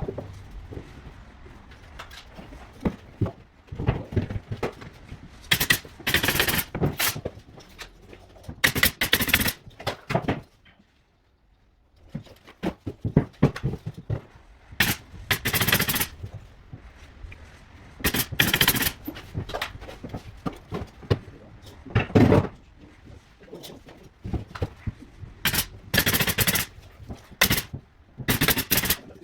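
Pneumatic nail gun firing repeatedly during carpentry, sharp shots in irregular groups, with a short pause partway through.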